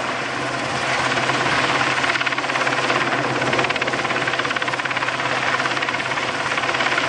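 Westland Sea King helicopter's rotor and twin Rolls-Royce Gnome turboshaft engines running steadily, a loud, even rotor noise with a rapid beating pulse.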